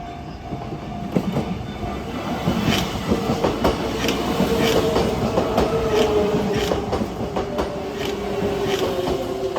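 Kintetsu train passing close by, its wheels clicking over rail joints about twice a second, with a steady whine that drifts slowly lower in pitch.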